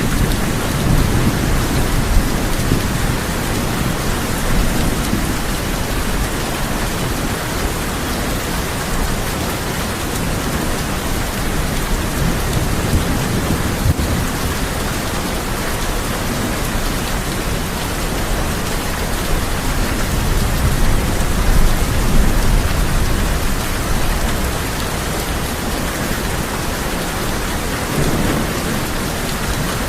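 Heavy rain drumming steadily on a tin roof, with low rumbles of thunder that swell and fade several times, the strongest about two-thirds of the way through.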